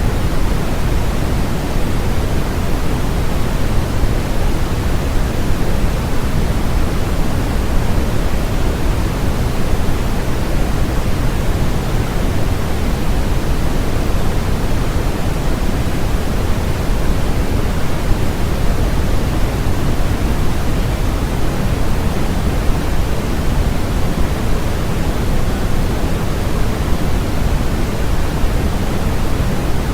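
Steady, electronically generated noise sold as white noise: an even, unchanging hiss with more weight in the low end than the high.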